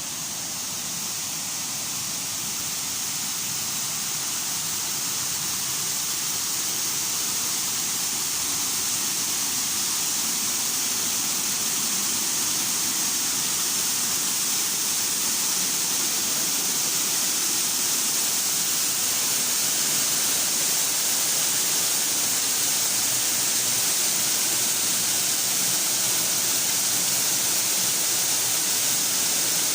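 Steady rush of falling water from a waterfall, a smooth hiss without breaks that grows slightly louder over the first several seconds.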